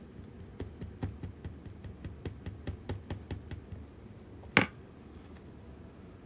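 Light kitchen clicks and taps, about four or five a second for a few seconds, then one sharp, much louder click.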